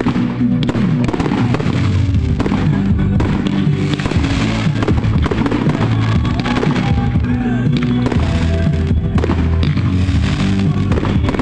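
Fireworks display: aerial shells and ground fountains going off in frequent pops, bangs and crackles, over loud music playing throughout.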